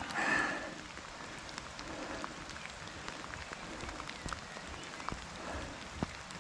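Steady rain falling, with many small drops ticking close to the microphone. A brief louder sound comes at the very start.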